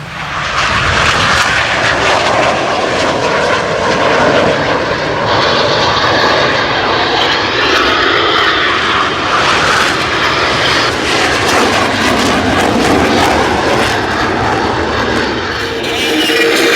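Jet aircraft flying past, their engine noise rising suddenly at the start and staying loud and steady for many seconds before easing slightly near the end.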